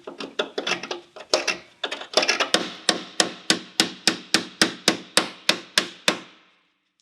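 Hammer blows on sheet-metal bodywork: a few irregular strikes, then a fast, even run of about four a second that stops about six seconds in.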